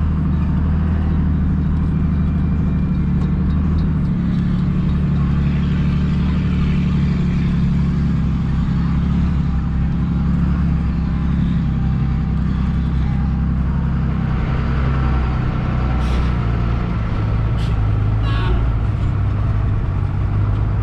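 Cabover semi truck's diesel engine running steadily on the road, a deep, even drone with a slight change in engine note twice. A few short sharp ticks come about three-quarters of the way through.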